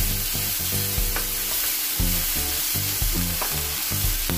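Ground pork sizzling in hot oil with sautéed garlic, onion and tomato as it is stirred and pushed around a non-stick frying pan with a spatula. A few short scrapes of the spatula on the pan come through the steady hiss.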